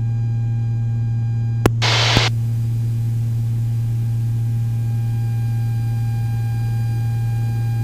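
Steady low drone of the Beechcraft Baron's twin engines and propellers, heard through the cockpit intercom recording. About two seconds in there is a click and a short burst of radio hiss.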